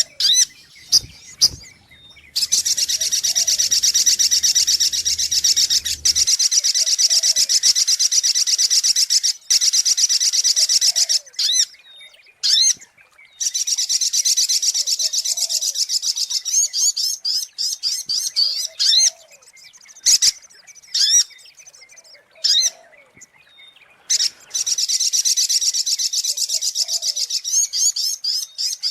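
Little spiderhunter (sogok ontong) song used as a bird-lure call: long runs of fast, high-pitched repeated notes lasting several seconds, broken by short pauses and single sharp chirps.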